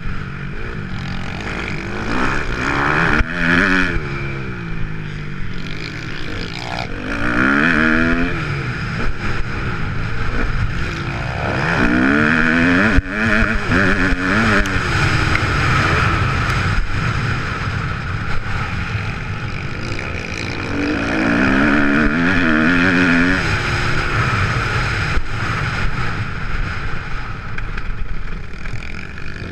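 A Kawasaki KX250F's four-stroke single-cylinder motocross engine revving up and backing off again and again, with the pitch climbing and dropping several times as it runs through the gears.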